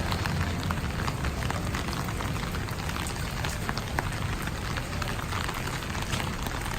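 Steady rain falling, with many individual raindrops ticking sharply on a surface.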